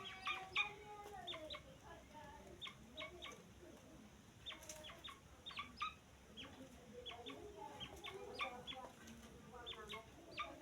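Francolin (teetar) chicks peeping: many short high chirps in quick runs, over lower, drawn-out rising-and-falling calls.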